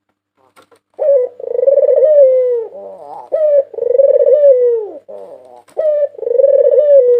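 White puter dove (a white domestic ringneck dove) cooing: starting about a second in, three repeated phrases, each a short note followed by a long coo that drops in pitch at the end.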